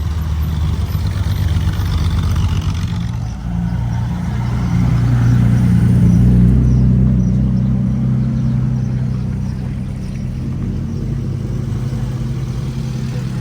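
Car engines running at low speed as cars drive in. The low engine hum swells loudest a few seconds in as one car passes close, then eases off.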